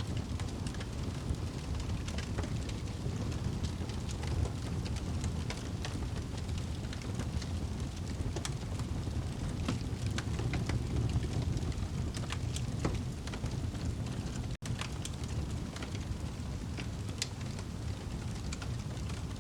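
Wood fire burning in a fireplace: a steady low rumble of flames with frequent sharp, irregular crackles and pops from the burning logs. There is a split-second dropout about two-thirds of the way through.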